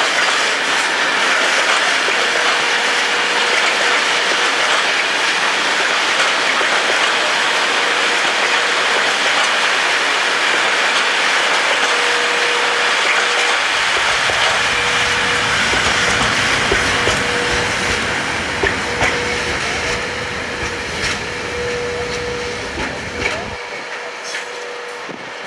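Open box coal wagons of a freight train rolling past. Steady noise of wheels on rail with a faint steady whine, fading over the last several seconds as the wagons draw away, with a few clicks of wheels over rail joints near the end.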